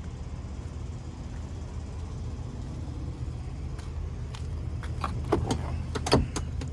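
Semi truck's diesel engine idling steadily, with a few sharp clicks and knocks near the end.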